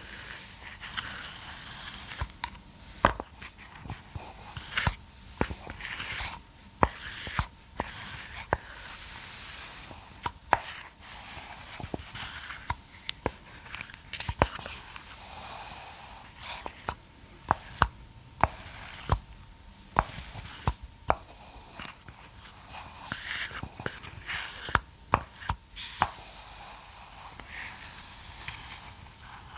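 Close-miked handling of a massage roller and ball: irregular sharp clicks and taps, some much louder than the rest, over scratchy rustling and scraping.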